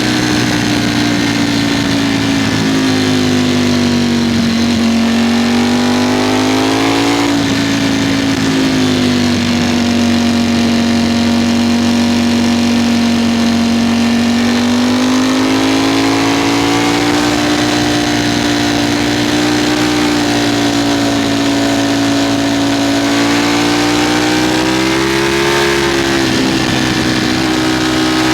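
Ducati Streetfighter V4 motorcycle's V4 engine running hard at a fairly steady speed. Its pitch sways gently up and down, with brief drops in note about seven seconds in and again near the end as the throttle is eased or a gear changes.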